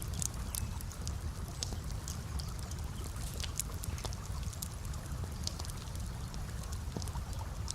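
Campfire crackling, with frequent small sharp pops and snaps scattered irregularly over a steady low rumble.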